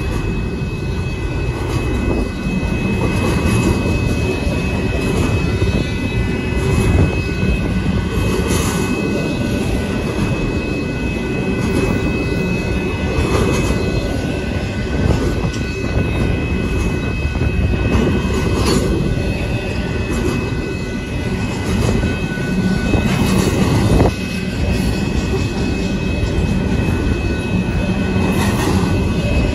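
Double-stack intermodal container train rolling steadily past at a grade crossing: a continuous rumble and clatter of steel wheels on the rails from the loaded well cars, with the crossing's warning bell ringing as a thin steady tone over it.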